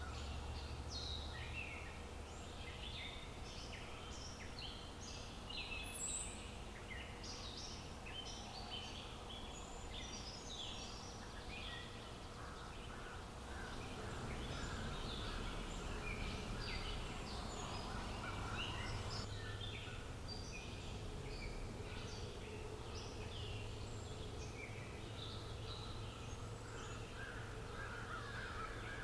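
Many small birds chirping and calling over one another in quick, overlapping short notes, with a faint steady hum and low rumble of outdoor ambience beneath.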